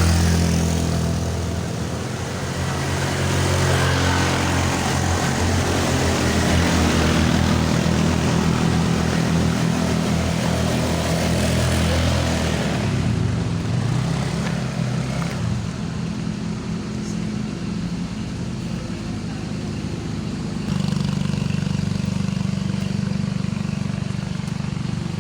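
A vehicle engine running steadily under a heavy rushing noise that fades after about twelve seconds. The engine carries on more quietly, then grows louder again about twenty seconds in.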